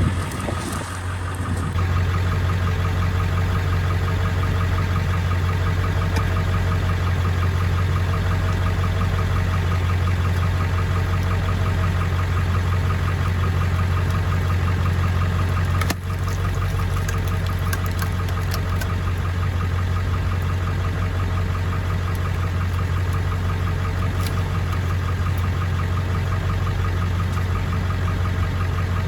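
Pickup truck engine idling in drive, turning a Stickler screw-cone log splitter mounted on the rear wheel hub; a steady hum, with a few faint clicks in the second half.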